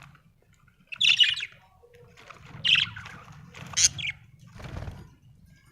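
Budgerigars chirping in three short, high-pitched bursts, with a brief rustling noise near the end.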